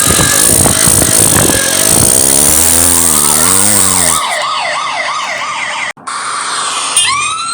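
Vehicle sound effects: a noisy rumbling for the first couple of seconds, then a police siren wailing rapidly up and down, cutting out briefly about six seconds in, and a new siren wail rising near the end.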